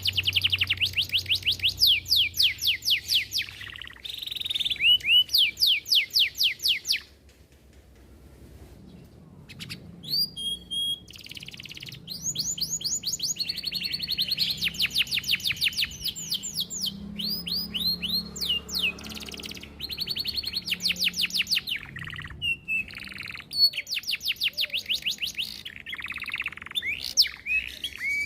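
Domestic canary singing long runs of fast, evenly repeated notes (rolls), with a break of about three seconds some seven seconds in before the song resumes.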